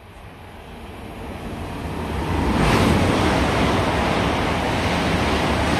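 A train passing through the station at speed close by: a rushing noise swells over the first two to three seconds and then holds loud.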